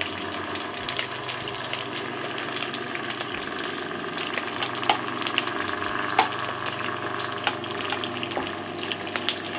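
Okra and onion frying in oil in a kadhai: a steady sizzle, with a few sharp clicks and scrapes from stirring in the pan.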